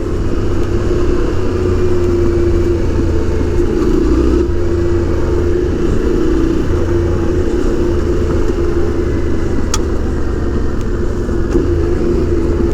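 Yamaha Ténéré 700's parallel-twin engine running at a steady pace while riding, with one sharp click near the end.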